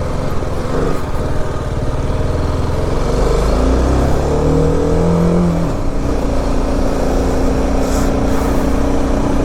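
BMW G 310 RR's single-cylinder engine pulling the bike up a steep climb. Its pitch climbs slightly for a few seconds, drops about halfway through, then holds steady. Wind rush over the helmet mic runs underneath.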